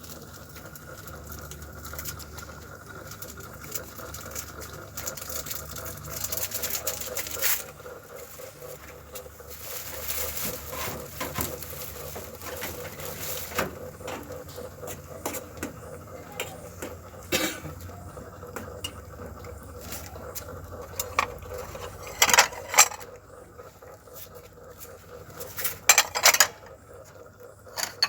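Cat eating from a food dish: the dish clinks and scrapes, with a few sharp clatters about 22 and 26 seconds in.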